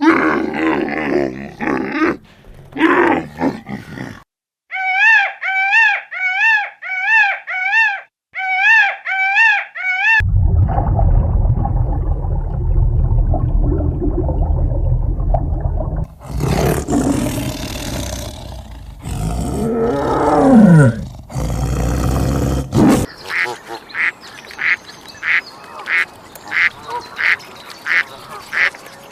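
A run of different farm animal calls in separate clips, one after another: a repeated pitched call about twice a second, then a stretch of noisier sound with falling cries, then a quick series of short calls.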